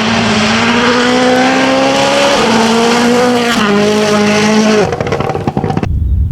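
WRC rally car at full throttle on gravel. The engine note climbs and drops twice as it shifts up, then the car lifts off about five seconds in with a burst of crackling and popping. The sound then cuts off abruptly to a low rumble near the end.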